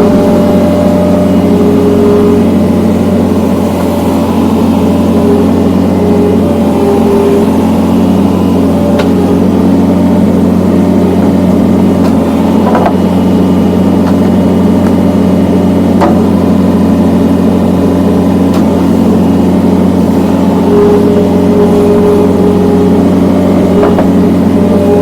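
John Deere skid steer's diesel engine running steadily, powering a hydraulic log splitter attachment, with a few sharp cracks about 9, 13 and 16 seconds in.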